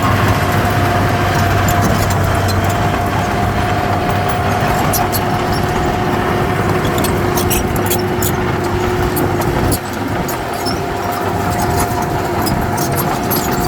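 Heavy earthmoving machine running under its diesel engine, with a steady high squeal and many short metallic clicks over it; the sound drops suddenly about ten seconds in.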